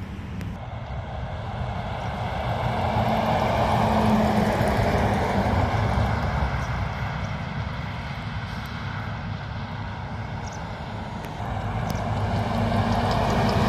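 Heavy trucks driving past: a steady diesel engine drone with tyre and road noise that swells to a peak about four seconds in and fades, then swells again as another one approaches near the end.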